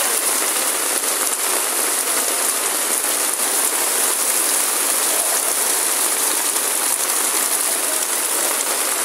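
Heavy rain with floodwater rushing fast down a street: a steady, even hiss.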